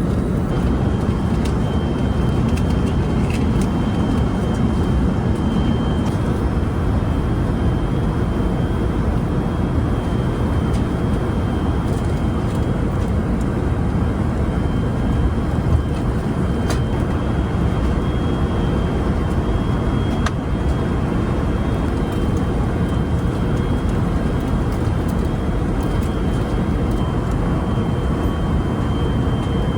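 Steady roar of airliner cabin noise inside an Airbus A380-800, with a faint steady high whine running through it.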